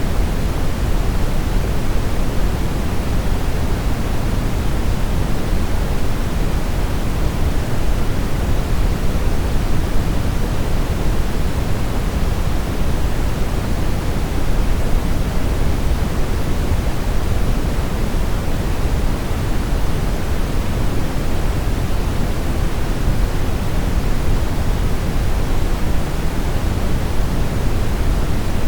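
Steady brown noise: an even, unchanging rushing hiss, heaviest in the deep bass and falling away toward the treble, like a low rumble.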